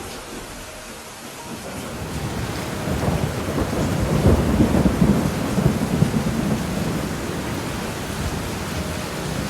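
Thunderstorm with steady heavy rain; a roll of thunder builds about two seconds in, rumbles loudest around the middle, then fades back under the rain.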